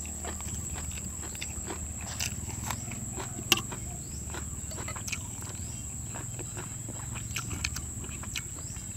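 Close-up chewing and mouth sounds from eating, with scattered small clicks and a sharper click about three and a half seconds in, as a metal spoon scrapes and taps the dishes.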